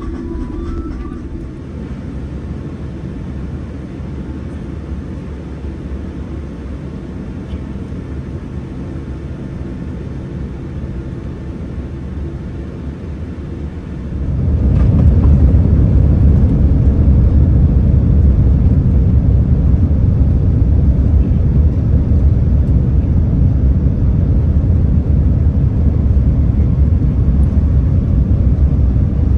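Cabin noise inside a Boeing 787-10 airliner: a steady low engine hum, then about halfway through a sharp rise to a much louder, steady rumble as engine thrust comes up, typical of the start of the takeoff roll.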